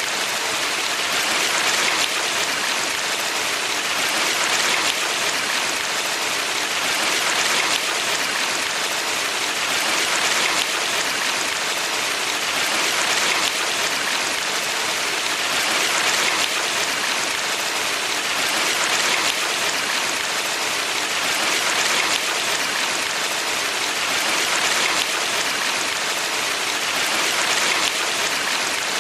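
Valley stream water rushing steadily, its hiss swelling and easing gently about every three seconds.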